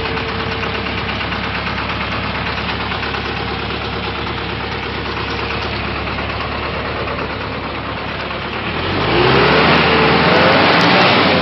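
Isuzu 4HL1 four-cylinder diesel engine running at a steady idle on a test run, then revved up about nine seconds in, the pitch climbing and starting to fall back near the end.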